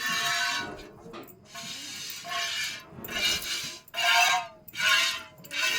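Milk squirting into a pail as a cow is milked by hand: a hissing stream with each pull, about once a second.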